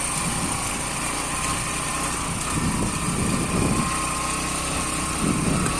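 Small motorcycle engine running steadily, with a thin high whine over a low rumble.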